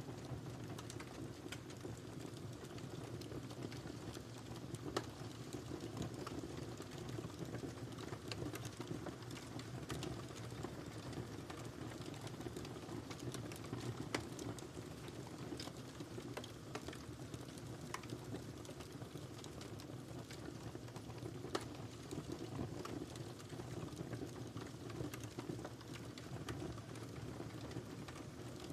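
Wood fire burning in a fireplace: a steady low rumble of flames with scattered crackles throughout and a few louder pops.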